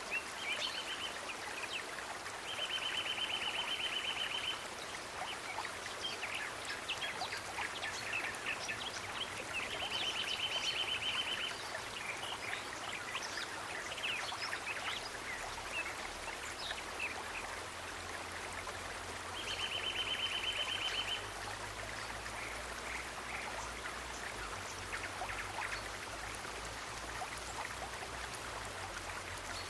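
Running stream ambience with a steady trickling rush and scattered small chirps. A rapid, evenly pulsed high buzzing trill of about two seconds sounds three times, roughly eight seconds apart. A low hum joins about halfway through.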